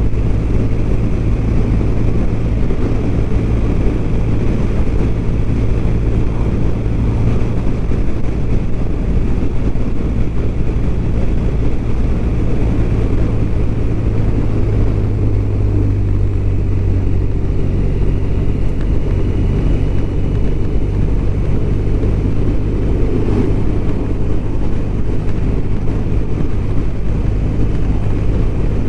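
BMW R1200RT motorcycle's flat-twin engine running steadily on the move, under a dense, even low rumble of wind and road noise.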